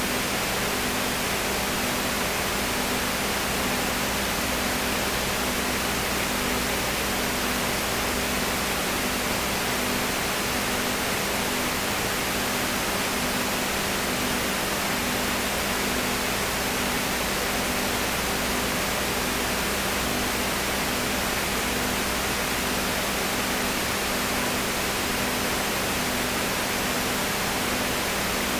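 Steady hiss with a low hum that pulses evenly underneath, the unbroken noise floor of an old film soundtrack transfer with no other sound on it.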